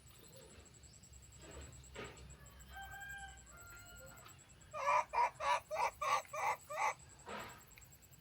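An animal calling: a few short steady-pitched calls, then a run of seven quick loud calls, about three a second, and one more fainter call.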